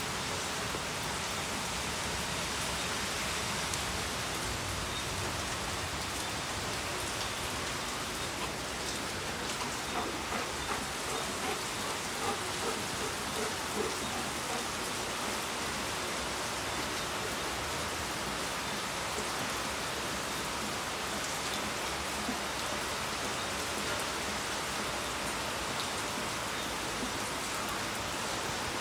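Steady rain falling, an even hiss of drops on hard ground. A few short, higher sounds stand out briefly about ten to fourteen seconds in.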